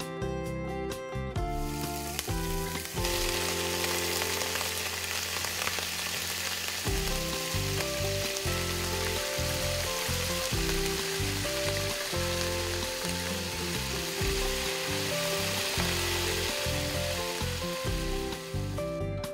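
Small meatballs frying in hot oil in a tiny miniature wok: a steady sizzle that starts about three seconds in, with the meatballs stirred now and then with a small wooden spatula. Background music plays throughout.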